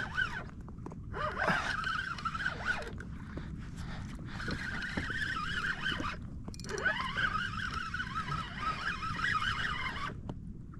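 Penn Battle III 5000 spinning reel being cranked steadily, its gears whining in a wavering pitch that rises and falls with the handle's turning, hauling braid up from deep water. The cranking stops briefly a few times, about a second in, near three seconds, after six seconds and near the end.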